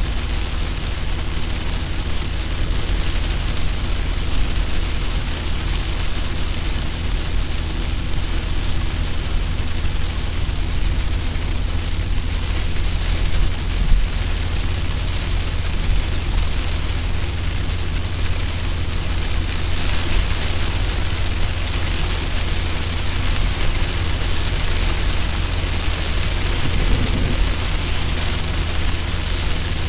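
Car cabin noise in rain at about 80 km/h: a steady low drone of engine and tyres under the hiss of rain and spray on the windshield.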